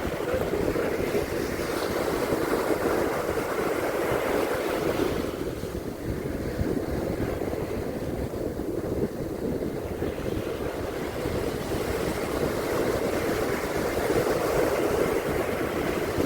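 Ocean surf washing onto a beach, surging in swells early on and again near the end, with wind rumbling on the microphone.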